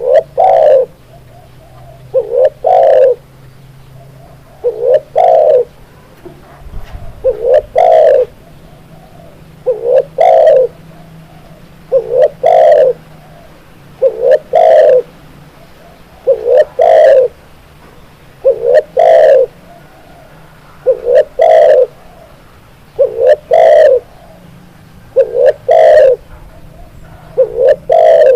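Spotted dove cooing: a loud phrase of two or three low notes, repeated evenly about every two seconds.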